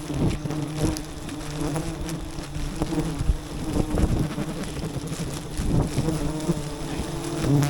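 A mass of wild bees buzzing in a steady drone, with scattered short clicks and knocks over it.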